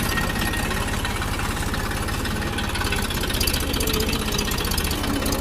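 Tractor engine running steadily, with a fast, even firing beat.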